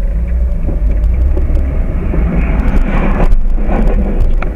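Vehicle driving noise, a loud steady low rumble of engine and road.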